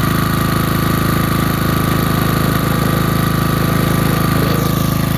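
Generator engine running at a steady speed.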